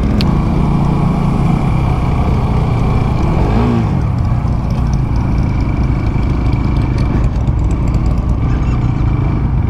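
Motorcycle engine running steadily while riding, with road and wind noise. About three and a half seconds in there is a brief rise and fall in pitch.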